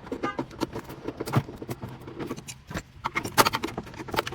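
Irregular metallic clinks, knocks and scrapes of a screwdriver prying at the steel casing and fittings of a hot water heater being taken apart for scrap. A cluster of louder clanks comes a little after three seconds in.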